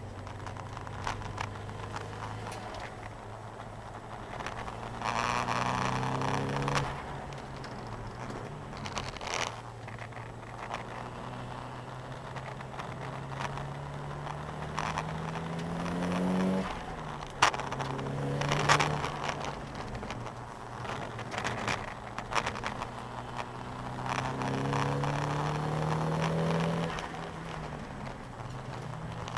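Nissan 200SX engine heard from inside the cabin, lapping a race track: it climbs in pitch under hard acceleration three times and drops back between. Several sharp clacks stand out, the loudest about two-thirds of the way through.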